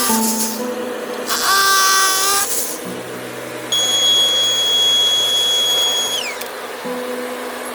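A small electric power tool runs with a steady high whine for about two and a half seconds from around halfway in, then winds down with a falling pitch. Guitar music plays under it.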